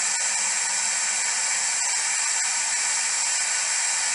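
Steady white-noise hiss from a white noise device used for EVP sessions, strongest in the high treble, with a few faint ticks.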